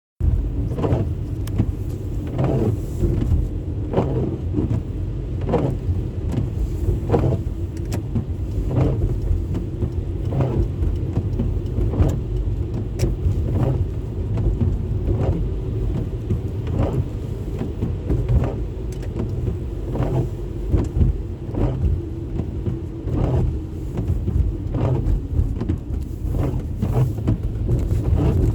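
A car driving, heard from inside: a steady low rumble of engine and road. A regular stroke comes a little more than once a second throughout.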